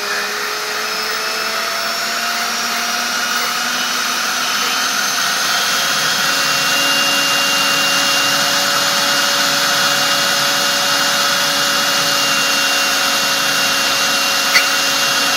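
EGO LB4800 480 CFM cordless leaf blower, its factory controller repaired, running: the whine of its brushless fan motor climbs slowly in pitch over the first several seconds, the soft start of the original controller, then holds steady and drops away right at the end.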